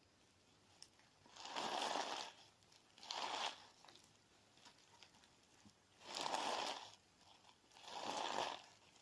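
Clear slime mixed with crunchy sand being pressed and worked, making four gritty, crunchy squishes with short pauses between.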